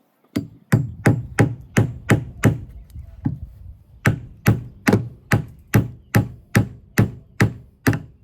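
A hammer driving a nail into a hard wooden roost board: about eighteen sharp blows at two to three a second, with a short break holding a single blow about halfway through.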